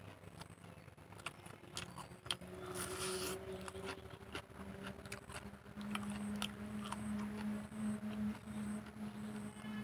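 Close-up eating sounds: chewing and soft wet mouth clicks, with fingers scraping rice and curry around a plate. A steady low hum runs underneath and gets louder about halfway through.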